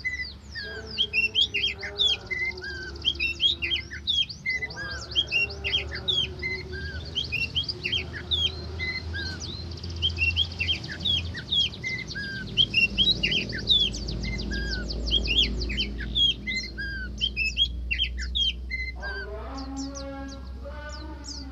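Oriental magpie-robin (kacer) singing a fast, varied song of rapid sweeping whistles and chirps, with hardly a pause. Near the end a lower, buzzier pitched call joins in.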